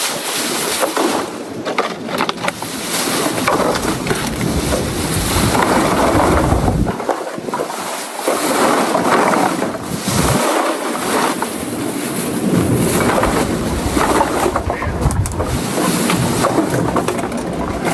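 Wind buffeting the microphone in gusts over the rush of surf, a loud rumbling noise that eases off briefly a couple of times.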